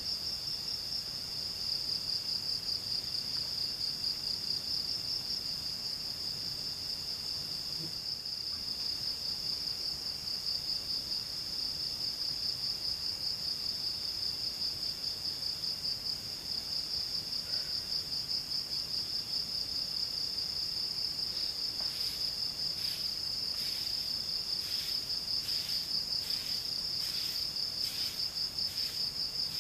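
Insects such as crickets trilling: a steady, high, fast-pulsing trill throughout, joined about two-thirds of the way in by a second insect calling in short, sharp pulses about twice a second.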